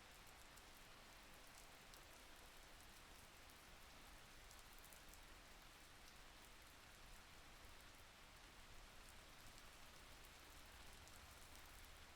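Faint, steady rain falling, a soft even hiss with scattered small drop ticks.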